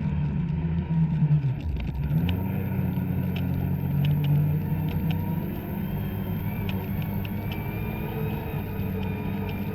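Two-stroke snowmobile engine running on the throttle; its revs drop briefly about one and a half seconds in, then pick up again and hold steady, with scattered light ticks over it.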